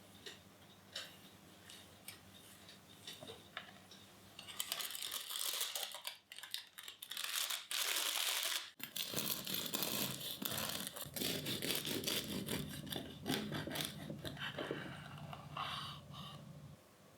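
Crisp crust of a homemade yeast loaf crackling and crunching in irregular bursts, heaviest from about a third of the way in, with a brief pause near the middle, over a faint low hum.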